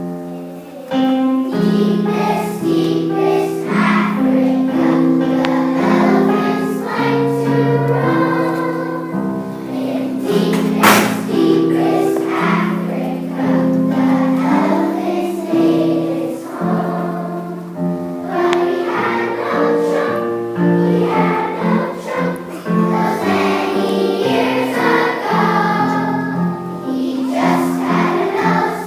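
A children's choir singing a song, with one sharp knock about eleven seconds in.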